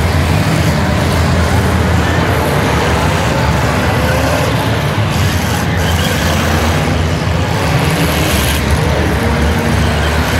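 Engines of several demolition derby cars running and revving at once in the arena: a loud, steady din with a deep rumble.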